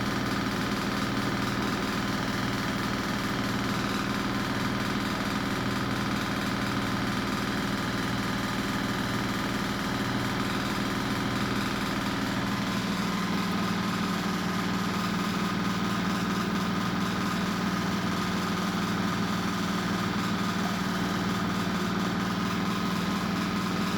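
Washing machine running with a steady motor hum; its tone changes about halfway through.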